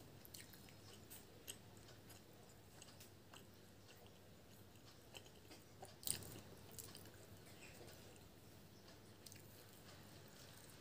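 Faint close-up chewing of soft puri with ghugni: small wet mouth clicks scattered through, and one sharper, louder click about six seconds in.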